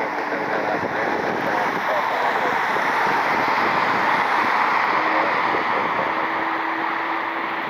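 Jet aircraft engines rushing, swelling to a peak about four seconds in and then easing off as the plane goes by, with a steady low engine tone that steps up in pitch near the end.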